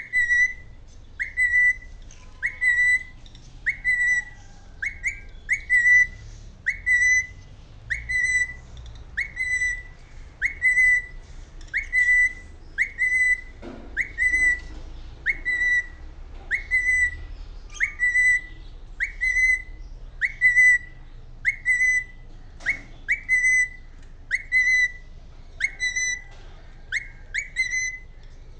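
A bird repeating a short whistled call about once a second. Each note swoops up quickly and then holds briefly on one pitch, and a few come as quick doubles.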